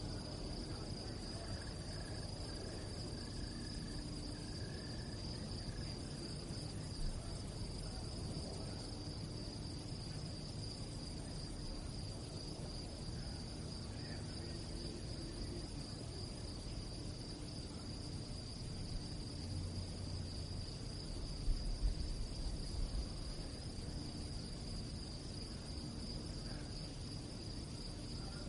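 Crickets chirping in a steady, unbroken high trill over a low rumble of background noise. A few short low bumps come about three-quarters of the way through.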